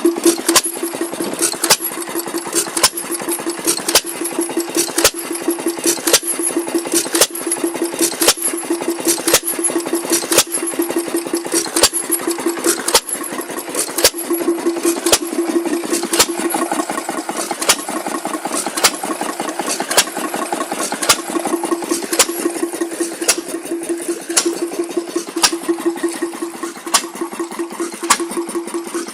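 Taylor stationary engine running steadily while pumping water: evenly spaced sharp beats, a little under two a second, over a steady hum.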